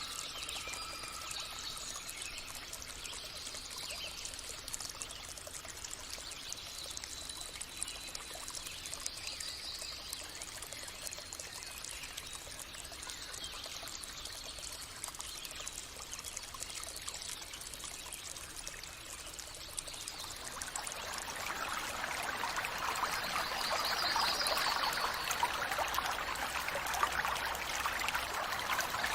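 Running water of a stream, trickling and splashing steadily, growing louder about two-thirds of the way through.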